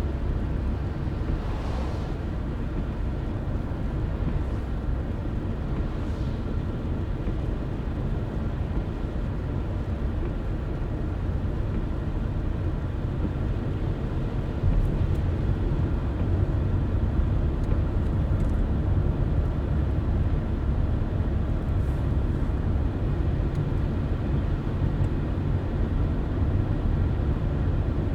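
A car driving along a road: a steady low rumble of tyres and engine, stepping up a little in loudness about halfway through, with a few faint ticks in the second half.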